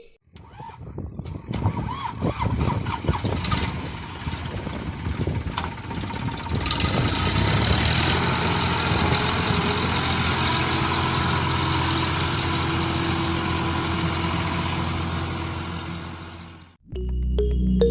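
Tractor engine starting up: it fires unevenly at first, then settles into a steady run about six seconds in and cuts off abruptly near the end.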